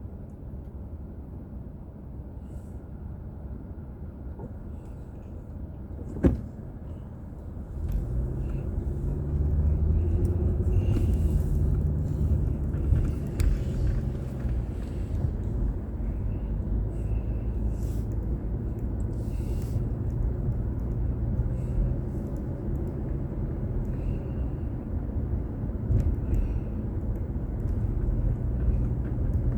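Car's engine and road noise heard from inside the car, low and quiet at first, with a single sharp click about six seconds in; about eight seconds in the engine and tyre rumble grows louder as the car pulls away, then runs steadily.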